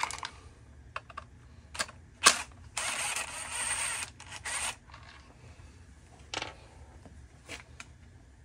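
Hands working on a Homelite string trimmer's plastic housing during disassembly: scattered clicks and knocks, the loudest a sharp knock about two seconds in, with a rough scraping rustle lasting about two seconds in the middle.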